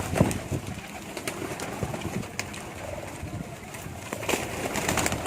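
Domestic pigeons cooing, with several sharp clicks scattered through.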